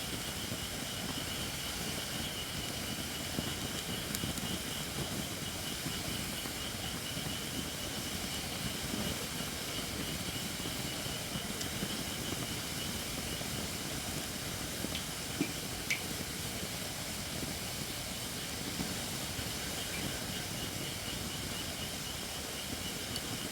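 Wood fire of Japanese white oak (shirakashi) logs burning with a steady hiss from the under-dried wood, and a couple of sharp crackles about two-thirds of the way through.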